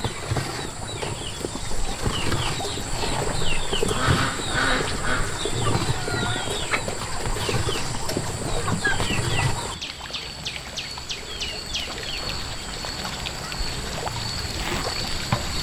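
Chickens and chicks peeping and clucking: many short rapid chirps over a low background of bumps.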